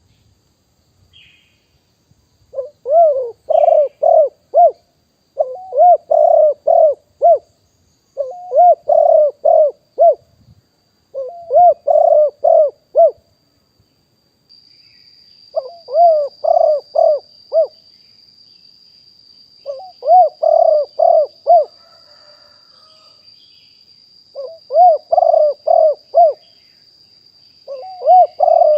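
Spotted dove cooing: phrase after phrase of about five quick rolling coos, each phrase about two seconds long, repeated every three seconds or so.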